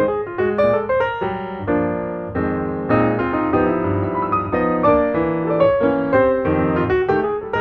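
Piano music playing a continuous run of notes.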